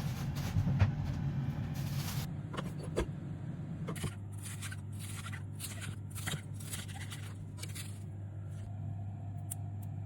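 Kitchen work: a hiss for about two seconds, then a run of short, crisp scrapes and clicks, over a steady low hum.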